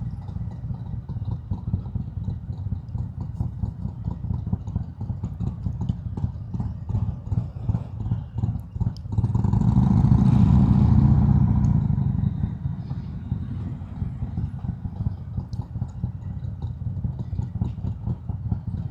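Harley-Davidson Road King's Milwaukee-Eight V-twin running at low speed with its lumpy, pulsing beat, heard from the rider's helmet mic. For about three seconds around the middle it grows louder, with a rushing noise over the engine.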